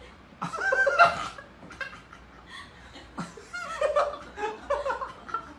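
A person laughing in short, broken bursts, about half a second in and again through the second half.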